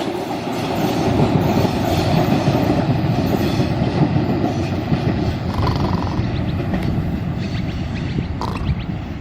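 Train running along the track: a steady rumble of wheels on rails, with short faint squeals about six and eight and a half seconds in.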